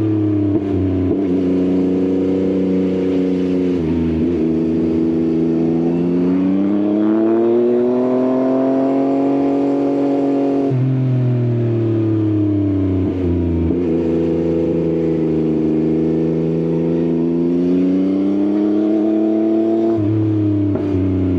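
Yamaha XSR900's inline-three engine through an Akrapovič exhaust, pulling through the gears. The revs climb and fall in long sweeps, with sudden pitch drops at several gear changes.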